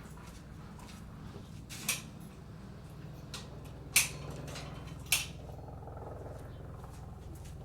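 Three sharp knocks from a pine log being handled onto the sawmill bed, about two, four and five seconds in, the middle one loudest, over a steady low hum.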